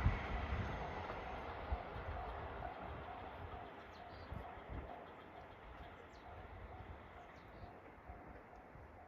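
Diesel train running away from a level crossing, its rumble fading steadily. A faint short tone repeats about twice a second under it.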